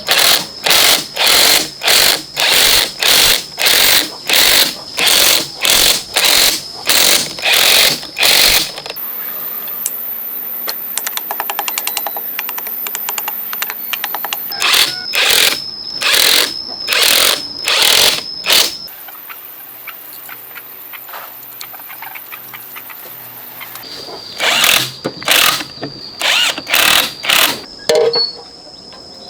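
Power tool working metal in runs of short strokes, about two a second, each carrying a high whine. Between the runs it holds a steadier, finer whirring.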